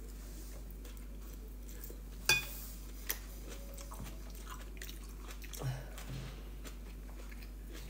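A man chewing a mouthful of salad, quietly, with a sharp click about two seconds in and a smaller one a second later.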